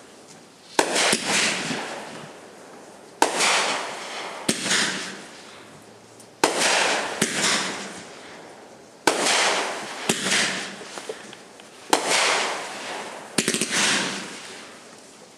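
Fireworks bursting: about nine sharp bangs at irregular intervals, each trailing off in a fading noisy tail over a second or two, with a few bangs close together near the end.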